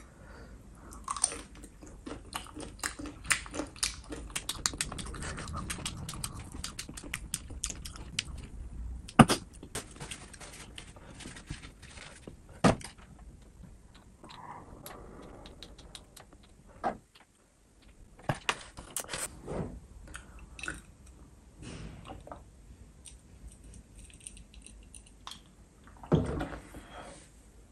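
Close-miked eating: chewing and biting of meat, with many sharp wet mouth clicks and smacks. About 26 seconds in comes a sip and swallow from a glass of whiskey.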